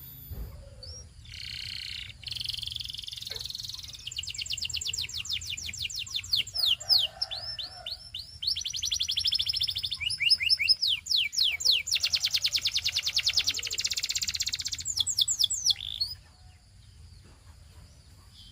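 Canary singing a long song of fast trills, each phrase a rapid run of repeated high notes, with the note pattern changing from phrase to phrase. The song breaks off a couple of seconds before the end.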